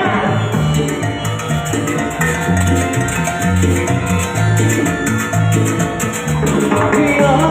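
Latin dance band music, an instrumental passage with no singing: a steady repeating bass line under sustained melody instruments and percussion.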